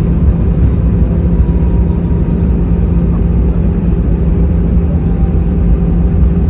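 Steady, loud cabin noise inside an Airbus A320: a low rumble with a constant hum from its CFM56 engines.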